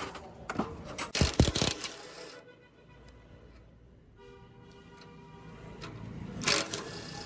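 Workshop handling noise: a few sharp knocks and clicks, the loudest cluster about a second in and another near the end, with a quieter stretch in between.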